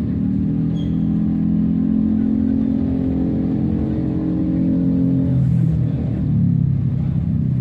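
A car's engine running while the car is under way, heard from inside the cabin. The steady engine note drops lower a little over five seconds in.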